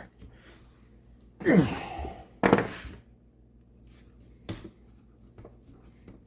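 A man lets out a sigh that falls in pitch. A short rasp follows, then a single sharp click a couple of seconds later, as side cutters work at a hardened steel hose clamp.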